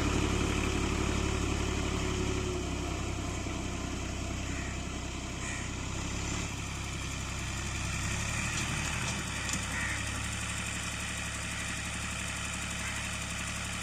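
Ghazi 65 hp tractor's diesel engine running steadily at low revs. It is louder for the first couple of seconds, then settles to a lower, even level.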